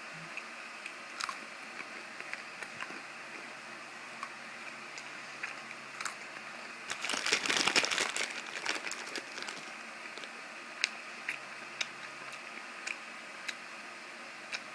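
Crinkling of a candy wrapper or snack packaging in a dense burst of about two seconds midway, amid scattered small clicks.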